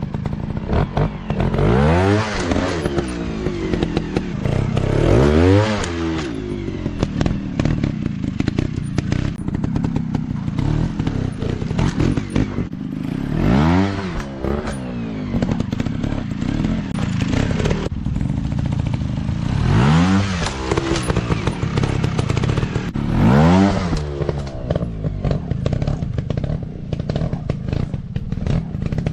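Dirt bike engines revving in repeated throttle bursts, the pitch rising and falling about five times, with clattering and thuds in between.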